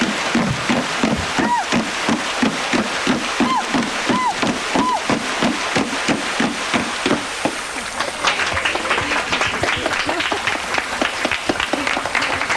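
Vanuatu women's water music: hands striking and scooping the water surface in a steady rhythm of deep plunks, about two to three a second, with a few short rising-and-falling whoops from the performers. About two-thirds of the way through, the plunks give way to a denser patter of applause.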